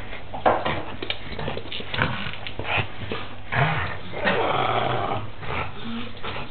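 Pug growling in irregular bursts while wrestling a toy horse, with scuffling and small knocks from the toy.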